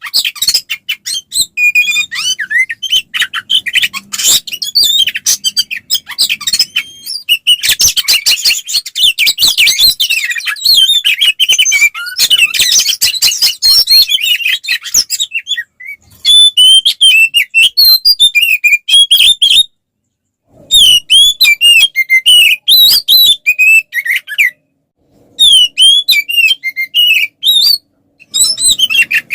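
Oriental magpie-robin (kacer) singing a loud, rapid, varied song full of quick whistles and clicking notes, the full-throated aggressive 'fighting' song of a bird in top form. The song comes in long runs broken by a few brief pauses near the middle and end.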